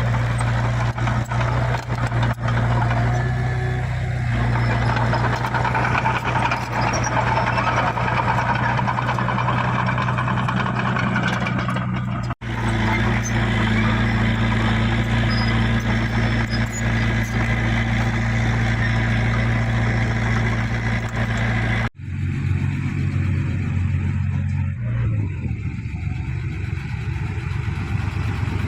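Heavy diesel engine of earth-moving machinery running steadily under work. The sound breaks off abruptly for an instant twice, and after the second break the engine note is lower and different.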